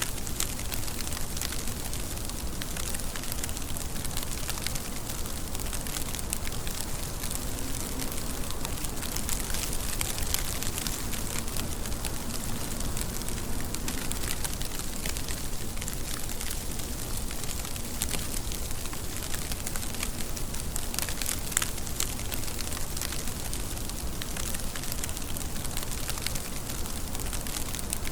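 Steady rain falling: an even hiss dense with small, crackling drop ticks.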